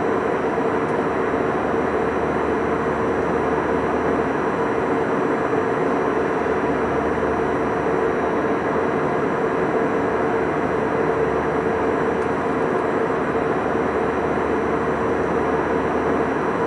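Airbus A320 cabin noise in flight: a steady rush of engine and airflow noise with a constant hum running through it.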